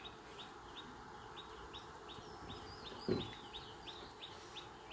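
A bird chirping over and over, short high notes about three a second, with a faint falling whistle near the middle. A single dull thump a little after three seconds in.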